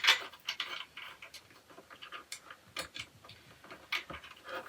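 Light, irregular clicks and taps of storage rack parts being handled and fitted together during assembly.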